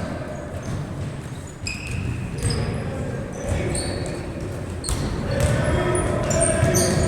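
Basketball bouncing on a hard court in an echoing hall, with short high squeaks and players' shouts toward the end.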